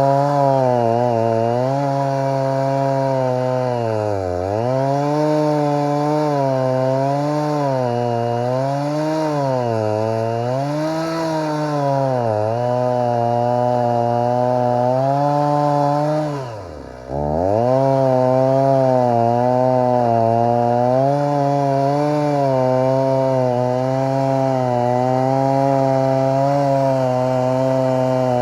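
Stihl MS 290 two-stroke chainsaw with a 20-inch bar and full-chisel chain running at high revs in a cut through very dry, dead hardwood. The engine pitch sags and recovers again and again as the chain bogs in the wood. About seventeen seconds in, the revs fall away sharply for a moment, then climb back.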